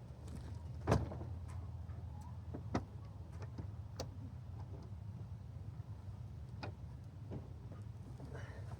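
Scattered knocks and clicks from handling a pop-up truck camper, the loudest about a second in, over a steady low rumble.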